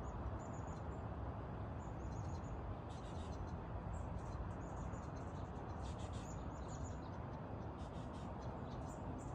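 Small birds chirping in many short, high notes over a steady low rushing background.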